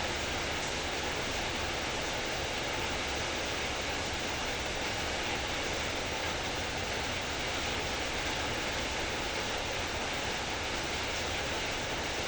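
Heavy rain falling steadily, a constant dense hiss.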